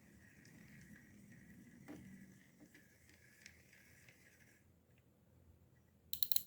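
Serviced fishing reel being handled and turned: a faint steady whir with scattered small clicks, then a quick run of sharp clicks near the end.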